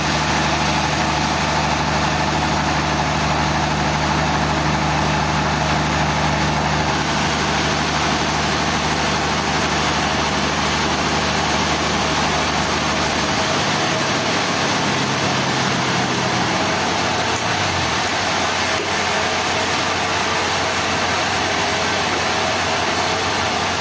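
An engine running steadily under a constant loud mechanical noise. About halfway through its low hum drops, and near two-thirds of the way its pitch falls away as it winds down, leaving the steady noise.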